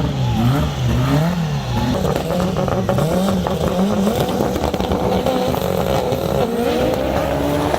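Car engine revving, its pitch swinging up and down about twice a second, then holding a higher note that slowly climbs, with exhaust crackle throughout.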